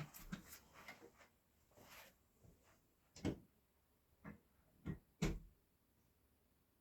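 A few soft knocks and clicks of someone moving about and handling things. The four clearest come about a second apart past the middle, then it goes quiet.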